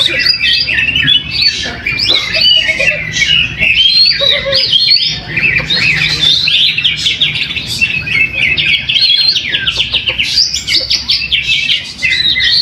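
Caged contest songbirds singing at once, led by a greater green leafbird (cucak hijau): a loud, unbroken stream of rapid chirps, trills and whistled phrases that overlap one another.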